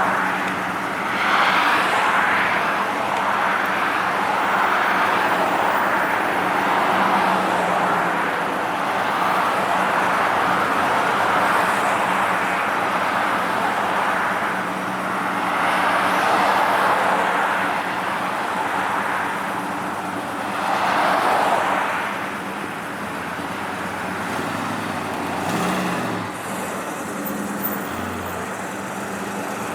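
A line of cars rolling slowly past, engines running steadily, with rushing swells as individual cars go by.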